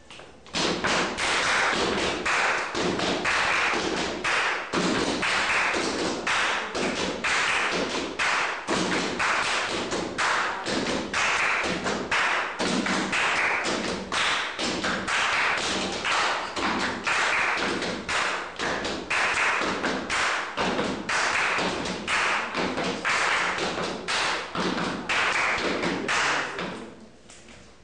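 Body percussion by a group: hands and feet tapping, slapping and stomping in a steady repeating rhythm, starting about half a second in and dying away near the end.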